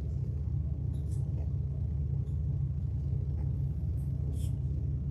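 Steady low rumble with a hum, and a few faint clicks.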